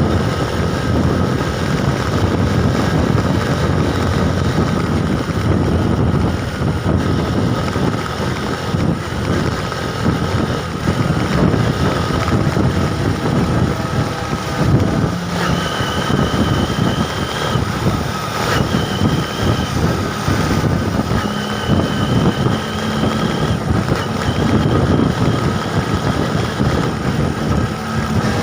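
Wind buffeting the microphone on a moving bike, with steady road and vehicle noise underneath. Several steady high tones come and go over the second half.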